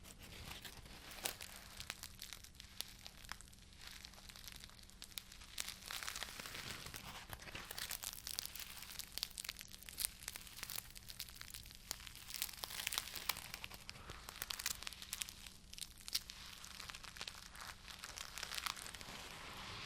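Dense, irregular crinkling and crackling of something handled close to the microphone, with a faint steady hum underneath.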